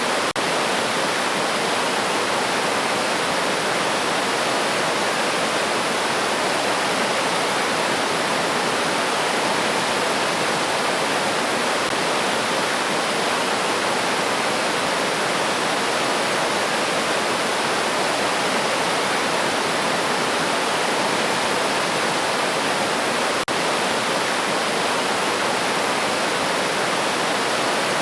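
River water rushing steadily over rocks, a dense, even wash of sound, with a momentary dropout about twenty-three seconds in.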